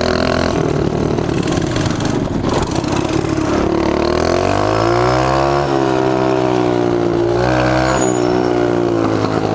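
Mini bike engine running under way, its pitch climbing for about a second and a half around four seconds in, then dropping back and holding steady, with another brief rise and fall near the end.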